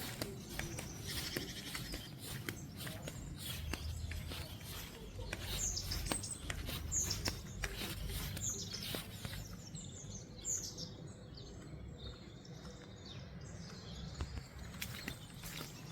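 Footsteps crunching on a stony path, with birds chirping in short, high, falling notes through the middle of the clip.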